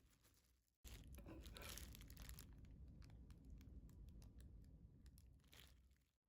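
Faint crinkling and crackling of a plastic bag being handled, with many small clicks.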